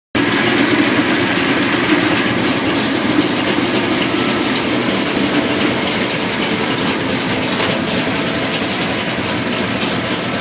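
Freshly built 582-cubic-inch V8 race engine running steadily and loud, cutting in abruptly at the very start.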